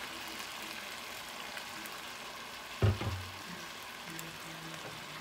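Chicken feet sizzling in a pot with soy sauce just added: a steady frying hiss. A single thump about three seconds in.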